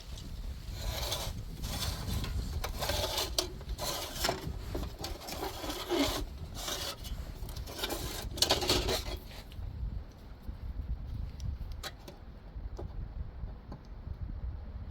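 Rasping strokes of a thin steel shim washer, cut from gas-cylinder sheet, being hand-finished. The uneven run of strokes stops about nine and a half seconds in, and a few light clicks follow.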